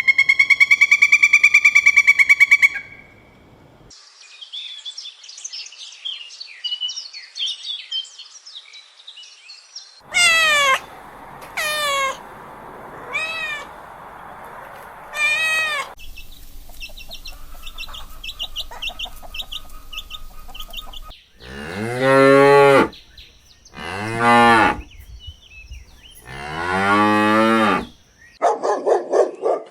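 A run of farm-animal calls. It opens with a loud, pulsing pitched call, followed by chirping, four short falling calls like cat meows, and three long cow moos near the end.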